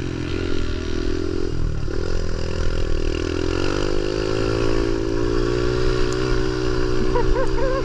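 Pit bike engine running under throttle while riding. The revs drop briefly about two seconds in, then climb and hold steady, over a heavy low wind rumble.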